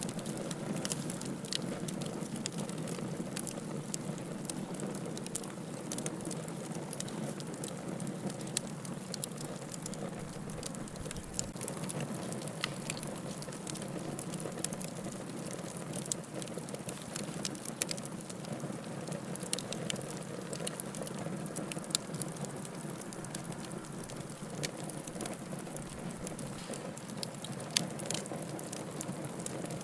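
Wood fire burning in a fireplace, a steady low rush of flames with frequent small crackles and a few louder pops of the firewood.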